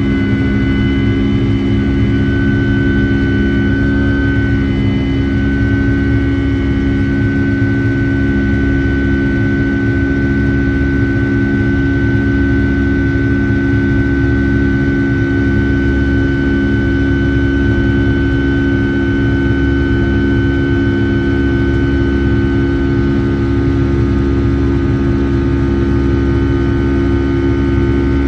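Boeing 757-300's Rolls-Royce RB211 turbofan engines heard from inside the cabin, running steadily: a low rumble with a high whine held on one pitch. The whine shifts a little about four to five seconds in.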